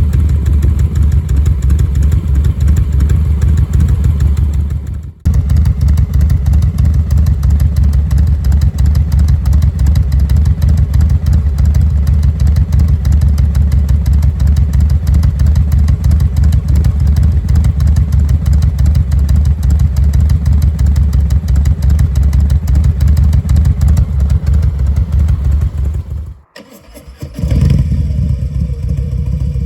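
Harley-Davidson Milwaukee-Eight 117 V-twin idling at a low 730 rpm through Cobra RPT 3-inch slip-on mufflers, a loud, steady, uneven loping exhaust beat set up to sound like a three-beat rhythm with the Tman-001 cam. The sound drops out briefly about five seconds in and again near the end.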